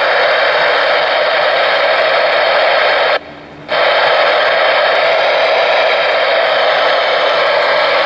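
Steady static hiss from a General HP-40W ten-meter radio's speaker, receiving with no signal, which cuts out for about half a second a little over three seconds in.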